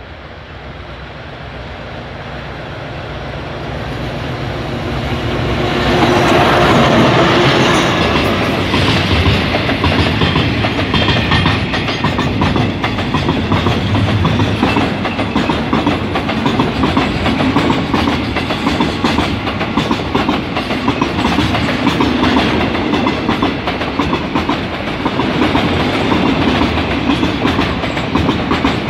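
Diesel-hauled freight train of oil tank wagons passing close by: the locomotive's engine grows louder as it approaches and passes about six to seven seconds in, then the wagons' wheels keep up a steady rumble and clickety-clack over the rail joints.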